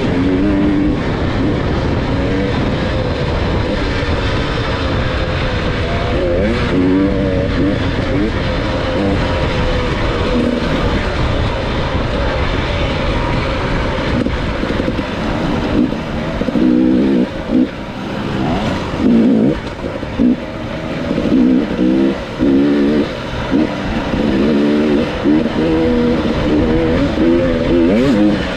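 Dirt bike engine running under throttle, its revs rising and falling as the rider opens and closes it. In the second half the revs come in short repeated bursts.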